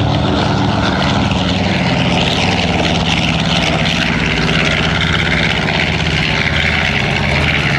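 Propeller-driven aircraft engine running loud and steady, with a droning hum under a wide rush of noise.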